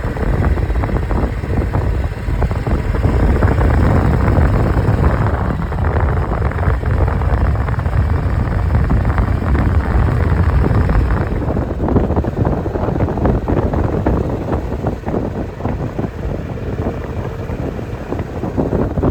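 Motorcycle engine running under way, with wind buffeting the microphone. It eases off and is a little quieter from about halfway through.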